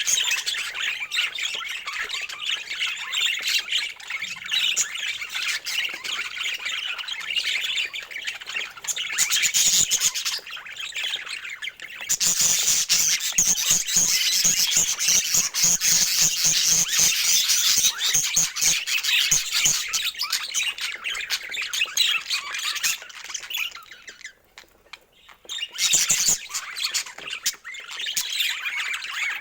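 A flock of budgerigars chattering and squawking without pause, growing louder in the middle and dropping briefly near the end.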